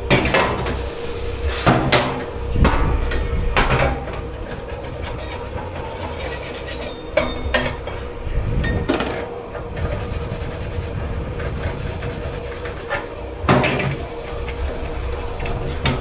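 Dishes and pots knocking and clattering at irregular intervals, a handful of sharp knocks spread through the stretch, over the steady hum of commercial kitchen machinery with a constant mid-pitched drone.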